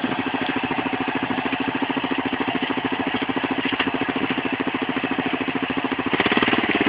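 Motorcycle engine idling with a steady, even pulse; near the end it grows louder.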